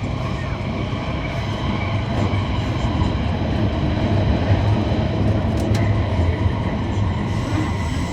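Guangzhou Metro Line 6 train running along the track: a steady low rumble, with one brief click about five and a half seconds in.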